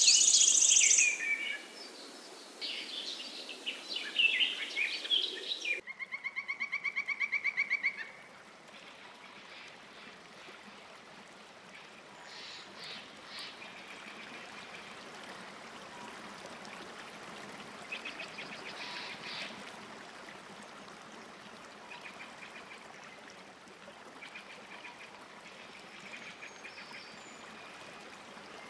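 Birds singing loudly for the first few seconds, then a rapid pulsing trill-like call for about two seconds, followed by a long quieter stretch of soft background hiss with a few faint, scattered chirps.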